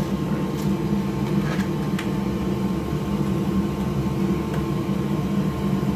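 Steady mechanical hum of a fan-driven workbench machine, with a few faint light clicks of small screws and parts being handled during reassembly.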